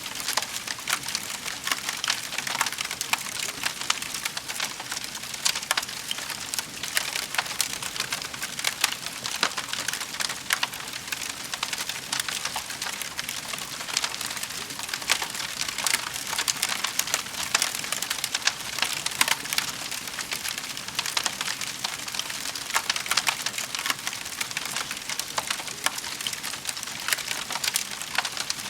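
Wood fire crackling in a fireplace: dense, irregular snaps and pops over a steady hiss.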